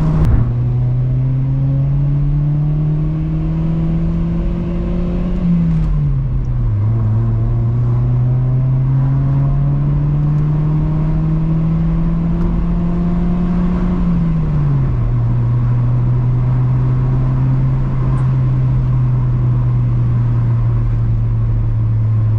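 Honda Civic EP2's 1.6-litre four-cylinder engine droning loudly through an aftermarket catback exhaust while driving: the revs climb slowly, drop sharply at upshifts about six and fourteen seconds in, then hold steady at cruise.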